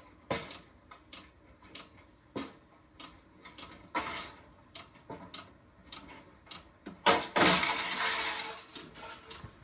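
Diesel heater fuel dosing pump clicking over and over, with metal parts of the heater being handled: a loud clatter about seven seconds in, then a second or two of scraping. The pump is still drawing air but is moving fuel.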